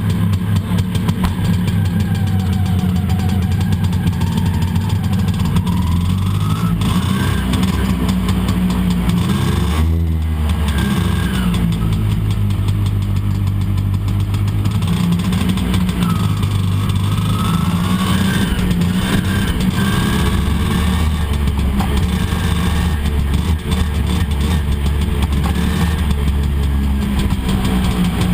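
Vespa Primavera 125 ET3's two-stroke single-cylinder engine, with a Sito exhaust, heard on board while riding. The engine note rises and falls repeatedly as the rider opens and eases the throttle, with a brief drop about ten seconds in.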